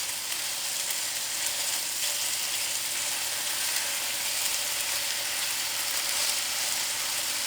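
Chicken tenderloins frying in olive oil in a skillet, sizzling steadily with fine crackling as the hot oil spits and spatters.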